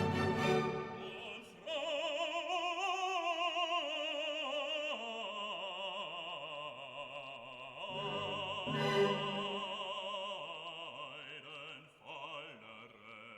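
Operatic singing in a high voice, holding long notes with a wide vibrato over classical accompaniment.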